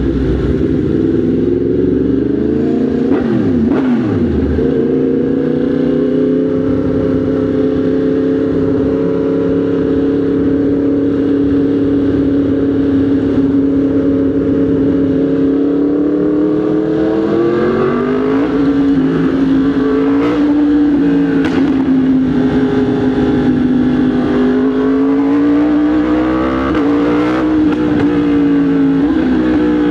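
Motorcycle engine running at a steady cruise, its pitch rising a little early on and again a bit past the middle, then wavering with the throttle.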